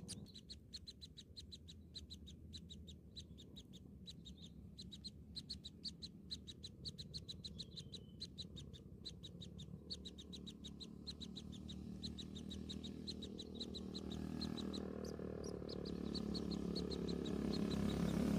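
Small birds chirping in a fast, even run of short high chirps, about five a second. Over the last few seconds a low rumbling noise swells up and becomes the loudest sound.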